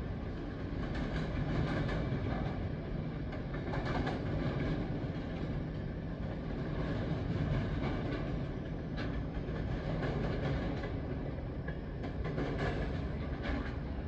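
CSX freight train rolling past: a steady rumble of steel wheels on the rails, with a few scattered wheel clicks.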